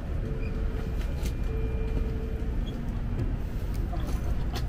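Shinkansen bullet train running: a steady low rumble with a few faint clicks.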